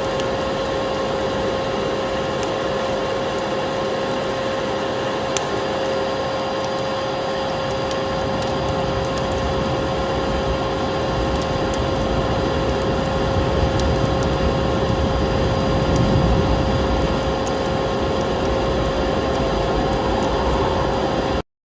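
Vacuum cleaner running steadily, a constant motor whine over a rushing drone, with scattered light crackles of a wood fire. It cuts off suddenly just before the end.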